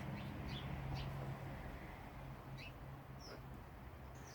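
Sparrows giving scattered short, high chirps, over a low steady hum that fades and cuts off near the end.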